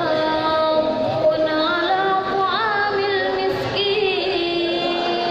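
A girl's solo voice chanting in long, ornamented held notes that slide between pitches, in the style of melodic Quran recitation (tilawah).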